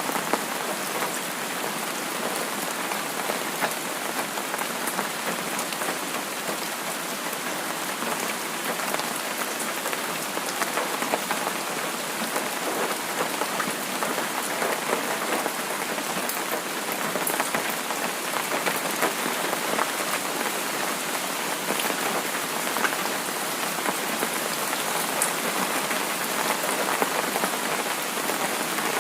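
Steady rain falling: an even hiss with many small drop impacts, no rise or fall.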